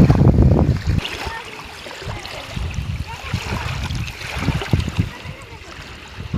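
Wind rumbling on the microphone in uneven gusts, strongest in the first second, over moving river water.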